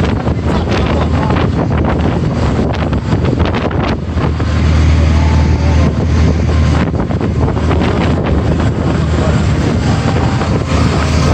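Wind blowing across the microphone, a loud steady low rumble with noise over it, growing louder about four and a half seconds in.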